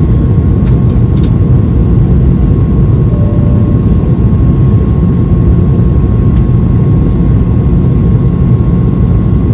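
Steady cabin roar inside a Boeing 717 on approach, from its rear-mounted Rolls-Royce BR715 turbofans and the airflow over the fuselage: a deep, even rumble with a thin steady whine above it.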